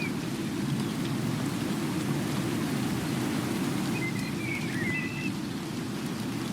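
Steady rain, mostly a low, even rush, with a few short high chirps about four seconds in.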